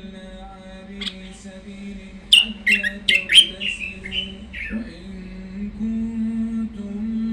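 A caged songbird calling: one short note about a second in, then a quick run of about six sharp, downward-slurred notes between about two and five seconds in.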